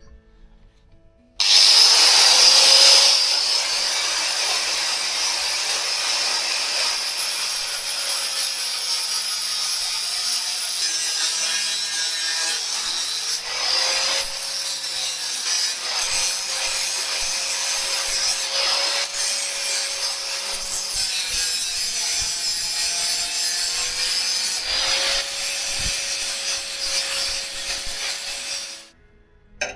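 An electric power tool running under load while cutting, with a steady hum that wavers slightly. It switches on suddenly about a second and a half in and cuts off shortly before the end.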